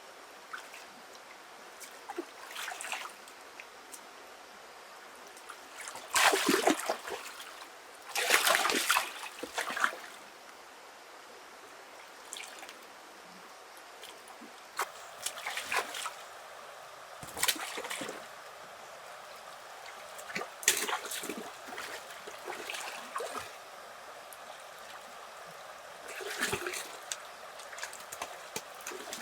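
Water splashing and trickling in irregular bursts, with the loudest splashes about six and eight to nine seconds in, over a faint steady trickle.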